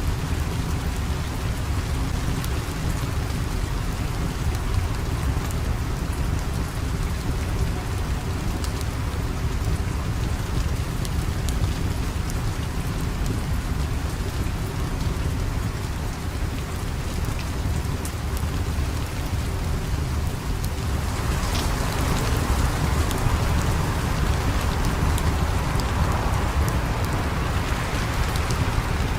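Steady rain falling, with a continuous low rumble beneath it and scattered faint ticks; the rain grows heavier about three-quarters of the way through.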